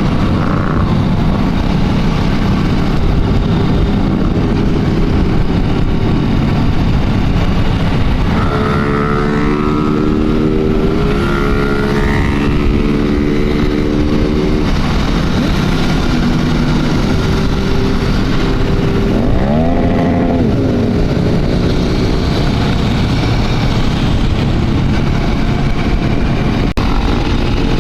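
Motorcycle engines running on the road under a heavy rush of wind noise. About nine seconds in, a steady engine note stands out for several seconds. Around twenty seconds in, another engine's pitch rises and falls.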